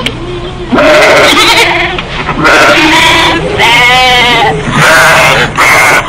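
Sheep bleating repeatedly: about five loud bleats in quick succession, one near the middle held longer with a trembling, wavering pitch.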